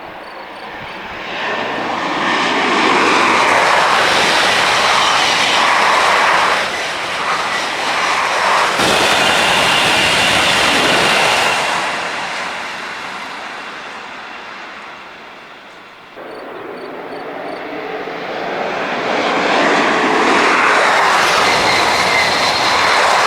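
TGV high-speed trains passing at full speed: a loud rushing noise builds over a couple of seconds, holds for about ten seconds and fades away. After a sudden cut, a second pass builds up to full loudness near the end and is cut off abruptly.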